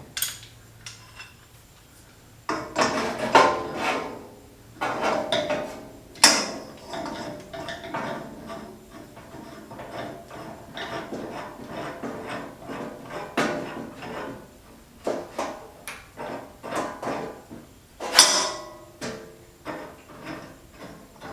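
A steel three-jaw gear puller being fitted behind a band saw's pulley: irregular metal clinks, scrapes and knocks of the jaws and tool being positioned, with a few sharper clanks.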